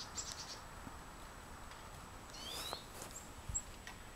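Black-capped chickadees calling faintly: a quick run of high ticking notes at the start and a few short high gliding notes about halfway through. A soft knock comes a little before the end.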